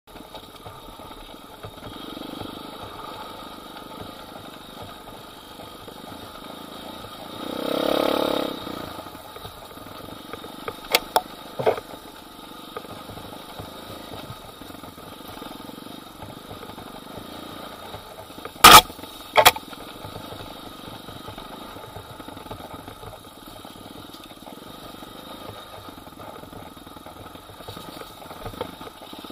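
Pit bike's small single-cylinder engine running steadily while it is ridden along a bumpy dirt trail, swelling louder once about a quarter of the way in. A few sharp knocks come through, a pair just over a third of the way in and a louder pair about two thirds in.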